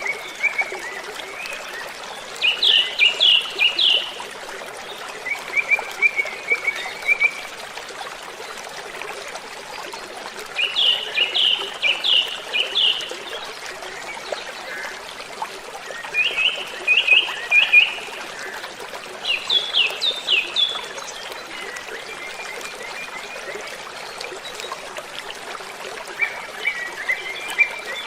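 Waterfall rushing steadily, with a songbird repeating short phrases of quick, sharp high notes every few seconds.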